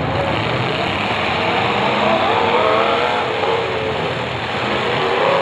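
Several demolition derby cars' engines revving hard together as the cars pull away and accelerate, the pitch wavering up and down.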